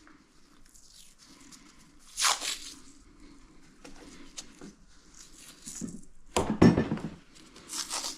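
Handling noises from work on the dryer: scattered scrapes, rustles and small knocks, with a sharp hissing scrape about two seconds in and the loudest knock-and-scrape about six and a half seconds in.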